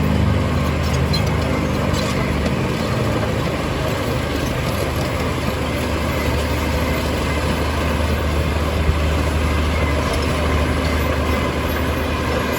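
Diesel engine of heavy earthmoving equipment running steadily, with a constant low drone.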